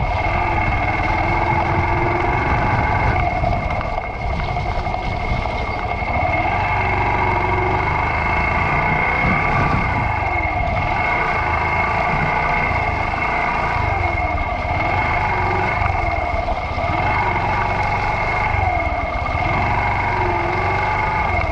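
Yamaha YBR125's single-cylinder 125 cc four-stroke engine running under way, its revs rising and falling again and again as the throttle is worked. A steady high-pitched whine sits over the engine.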